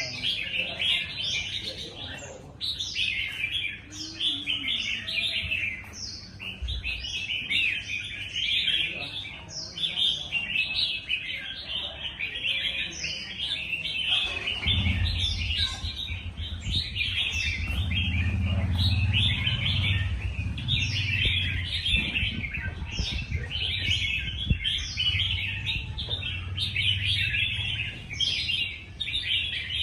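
Red-whiskered bulbul singing its competition song: rapid, continuous bright phrases with short rising notes. A low rumble runs underneath from about halfway through.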